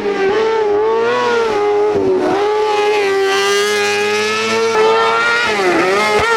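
Race car engine running hard at high revs during a hillclimb run. The pitch holds high and wavers, dropping briefly about two seconds in and again near the end before climbing back.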